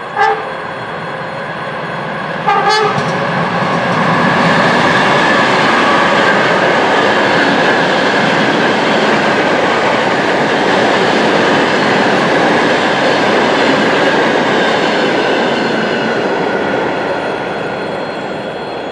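ChME3 shunting diesel locomotive gives two short horn toots about two and a half seconds apart, then moves past hauling wagons with a loud, steady rumble of engine and wheels that eases off near the end.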